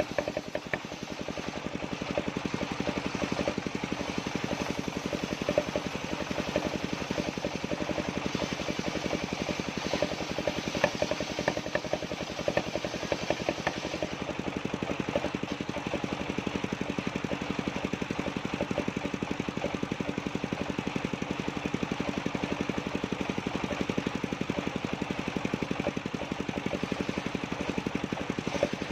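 Engine driving a circular sawmill, running steadily with a fast, even pulsing beat and occasional sharp ticks.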